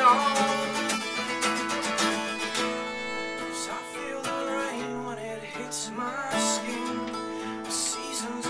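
Acoustic guitar strumming in an instrumental passage of a live song, with a sung note trailing off right at the start.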